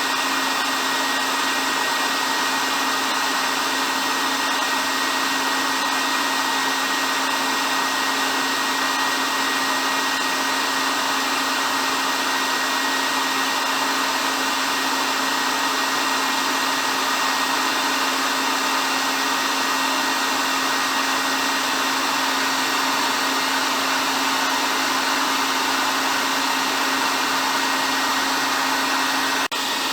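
Hair dryer running steadily: an even rushing hiss with a constant low hum, dipping for an instant near the end.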